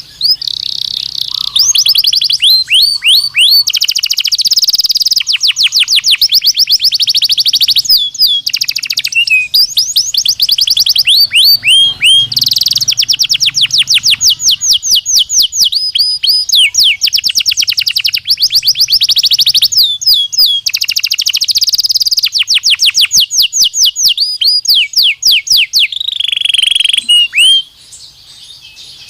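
Belgian canary singing a long song of fast trills, each made of rapidly repeated sweeping notes, with brief breaks between phrases; the song stops about a second and a half before the end.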